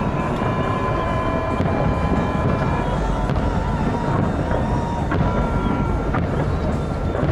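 Outdoor crowd chatter with a steady noisy din, and faint music or singing carried through it.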